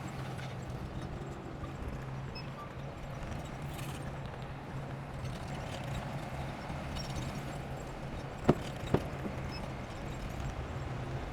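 Heavy earthmoving machine, such as a bulldozer, running steadily with a clattering sound, with two sharp metallic knocks about half a second apart near the end.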